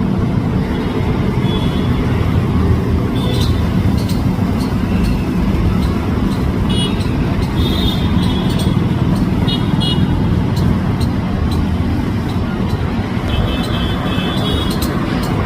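Steady low rumble of road traffic, with short runs of high chirping notes now and then, the longest near the end.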